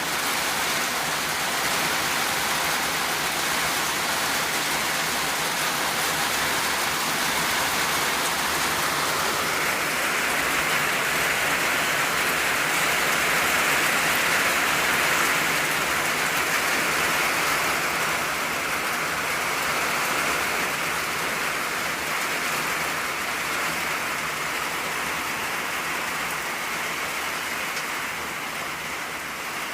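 Steady rain falling on an old tin roof, a dense even patter that swells in the middle and eases slightly near the end.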